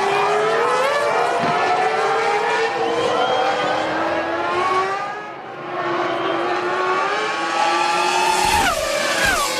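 Several Formula One V10 engines running at once, their pitches climbing and falling as they rev. Near the end one car passes close, its pitch falling sharply.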